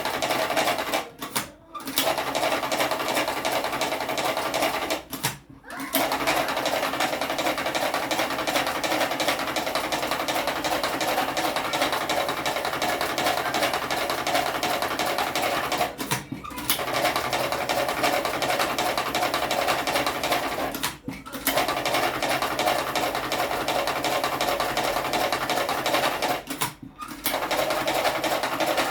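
Cigarette-rolling machine with a tobacco hopper running with a steady, busy mechanical chatter, cutting out briefly five times.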